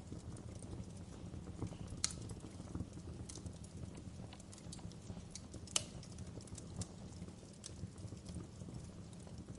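Wood fire crackling in a fireplace: a steady low rumble of burning logs with scattered sharp snaps and pops, two louder pops about two seconds in and again near six seconds.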